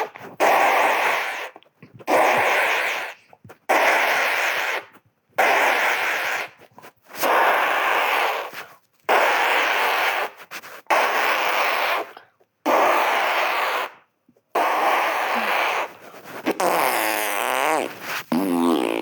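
A hissing, rain-like noise standing in for rain starting to fall. It comes in about ten bursts of a second or so, each one stopping suddenly before the next. A wavering pitched sound joins it near the end.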